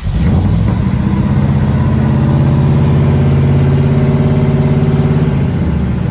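Ford 351 V8 with an Edelbrock four-barrel carburettor, roller cam and dual glass-pack exhaust firing up and running at a steady fast idle. The note steps down a little about five seconds in.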